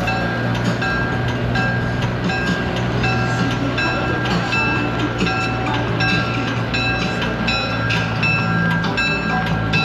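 Diesel locomotive bell ringing steadily, about two strikes a second, over the steady hum of the idling diesel engine.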